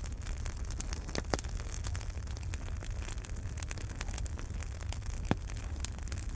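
Wood fire burning in a fireplace: a steady low rumble and hiss of the flames with continual small crackles, and two louder pops, about a second in and near the end.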